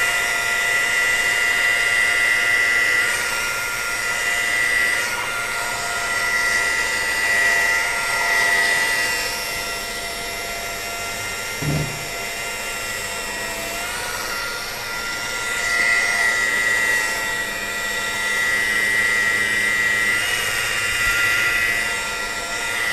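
Electric polishing machine running at raised speed on a plastic headlight lens, a steady high whine that swells and fades as it is worked across the lens. A brief knock about twelve seconds in.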